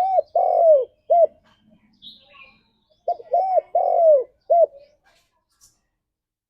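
Spotted dove cooing: two phrases about three seconds apart, each of short coos around a longer, drawn-out middle coo.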